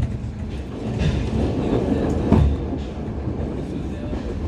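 Diesel intercity express train running along the track: a steady low rumble of the coach with a few knocks from the wheels, the loudest about two and a half seconds in.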